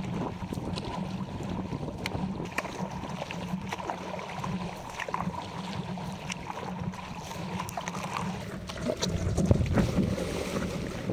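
Wind buffeting the microphone over water splashing and slapping around an inflatable stand-up paddleboard, with scattered short splashes; it grows louder about nine seconds in.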